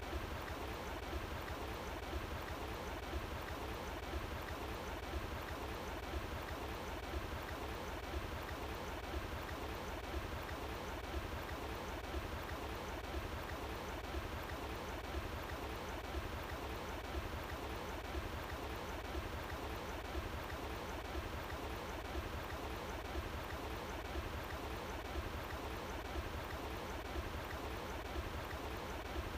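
Running water flowing steadily, an even rushing with no breaks, over a steady low rumble.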